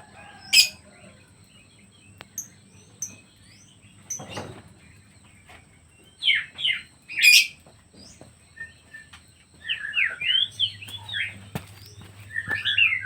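Pet birds chirping: a few sharp, scattered notes at first, then a quick run of short chirps in the second half.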